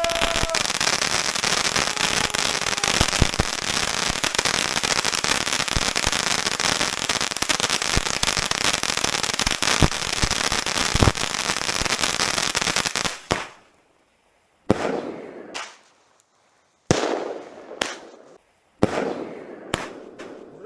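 Consumer fireworks battery (a salute cake) going off: dense, continuous crackling with sharp bangs for about thirteen seconds. Then come a few separate bursts, each starting sharply and fading, broken by sudden silences.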